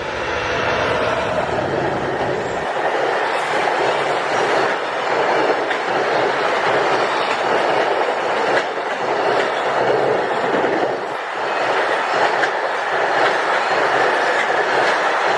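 A JR Tokaido Main Line train passing close by at speed, a steady loud rumble of wheels on rails that swells and dips slightly as the cars go by.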